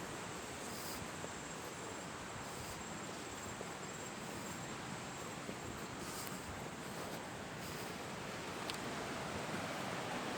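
Outdoor ambience: insects buzzing steadily at a high pitch over an even background hiss.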